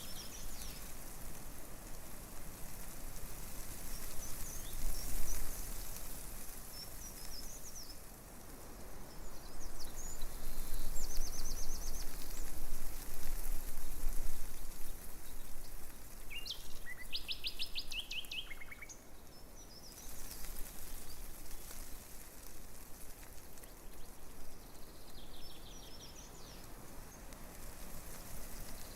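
Small birds chirping now and then, with a few quick trills, over a steady rustle of tree leaves in a breeze; the rustle swells for a few seconds about ten seconds in.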